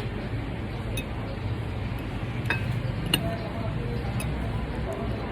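Spoons and dishes clinking a handful of times during a meal, over a steady low hum and faint voices.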